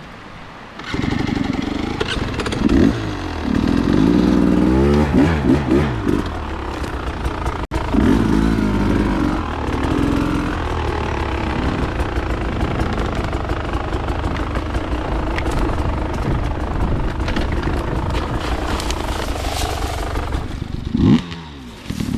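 Dirt bike engine running at speed, the revs rising and falling as the throttle is worked. It picks up sharply about a second in.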